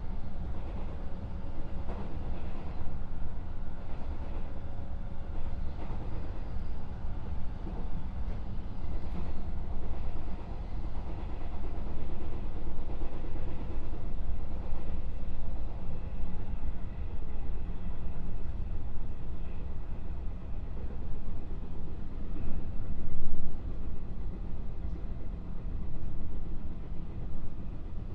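Interior running sound of a JR West 221 series electric train car (KuMoHa 221-67) under way: a steady low rumble of wheels and motors on the track, with faint steady tones early on. The sound briefly swells louder about 23 seconds in.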